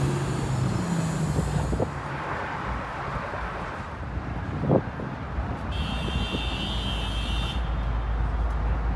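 Car engines running with road traffic noise, a low steady rumble. A single sharp knock sounds about halfway through, and a high-pitched tone is heard for about two seconds near the end.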